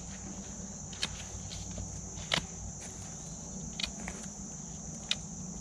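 Knife blade cutting into a green wooden stake, giving a few sharp clicks, the loudest about two seconds in, over a steady high drone of insects.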